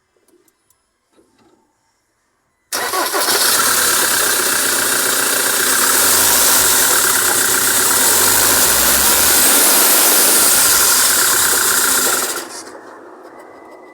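Ford Transit 2.2 TD four-cylinder diesel engine starting suddenly about three seconds in, then running loud and steady for about nine seconds before dropping away near the end. It is running on a newly fitted timing chain after the old chain broke.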